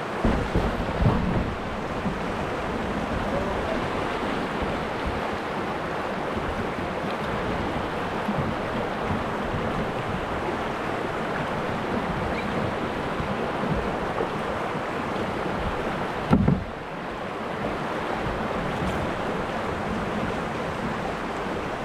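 Steady rush of moving river water, with a few low bumps of wind on the microphone. The sound breaks off abruptly about sixteen seconds in and then carries on much the same.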